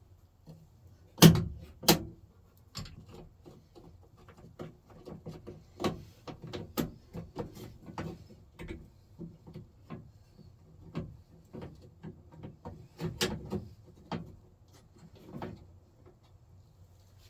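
Irregular clicks and knocks of hand work on a square-body Chevy truck door: two sharp knocks about a second in, a long run of small clicks and taps, and another loud cluster of knocks near the end.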